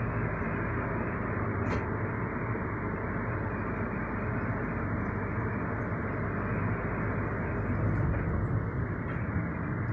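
Steady low rumble and hum inside a railway passenger coach, with a couple of faint clicks.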